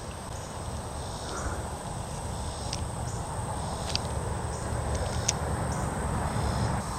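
Outdoor ambience of insects: a steady high buzz with a few faint short chirps and ticks, over a low, even rumble.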